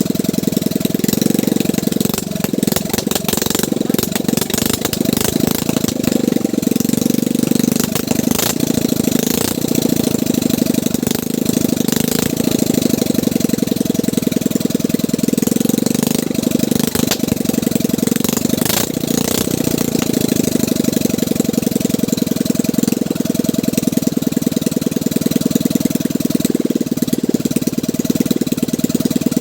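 Boat engine running steadily at a fast, even beat, with a few sharp clicks or knocks over it.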